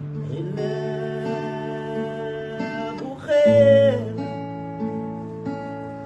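Guitar music with sustained, ringing chords that change every second or two; about halfway a louder held note comes in and sags slightly in pitch.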